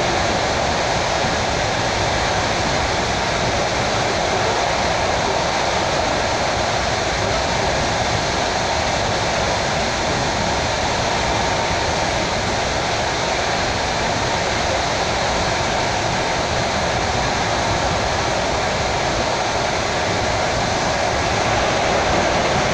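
Suburban electric train running at speed, heard from inside the carriage: a steady noise of wheels on rails and car movement, a little louder near the end as it passes under a bridge.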